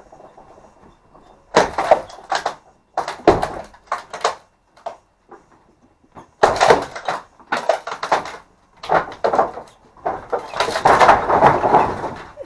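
Timber wall boards being levered and knocked loose during demolition: a series of separate knocks and cracks, then a longer spell of clattering, scraping wood near the end.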